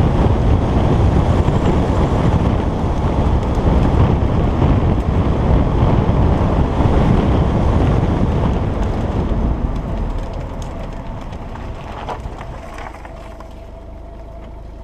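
Wind rushing on the microphone and road rumble from a 2010 Alfa Romeo Giulietta Quadrifoglio Verde under way. About ten seconds in the noise fades steadily as the car slows, leaving a quieter engine hum near the end.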